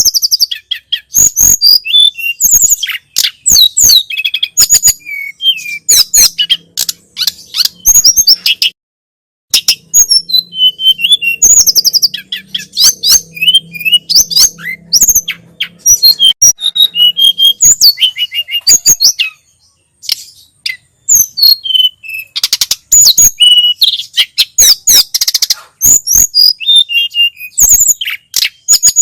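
Tledekan gunung (sulingan gunung) songbird singing almost without pause, in rapid high chirps and short whistled phrases, with brief breaks about nine and twenty seconds in. A faint low hum sits under the song through the middle.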